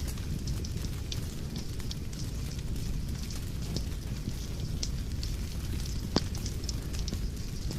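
Fireplace fire crackling: scattered sharp pops over a low, steady rumble, with one louder pop about six seconds in.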